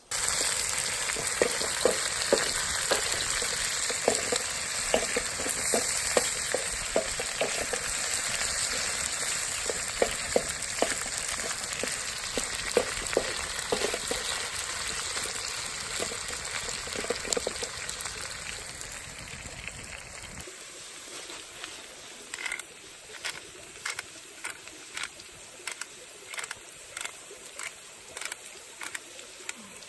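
Potato wedges frying in hot oil: a loud steady sizzle full of pops that slowly fades. After about twenty seconds it turns quieter, with a run of sharp, regular clicks about two a second.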